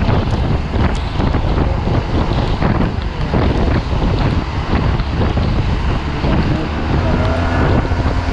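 Wind rushing and buffeting over the microphone of a Yamaha T-Max 530 maxi-scooter ridden at speed in heavy rain, over a steady low rumble of the ride.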